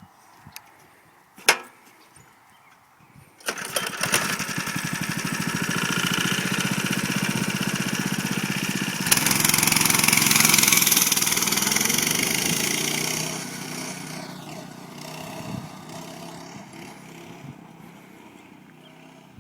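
Stock Baja mini bike's small single-cylinder engine starting suddenly a few seconds in, then running and getting louder as it is throttled up. It fades away steadily as the bike rides off. A sharp click comes just before the engine starts.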